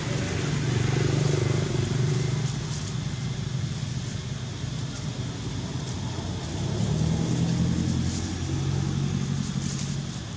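A low motor-vehicle engine hum that swells louder about a second in and again around seven seconds in.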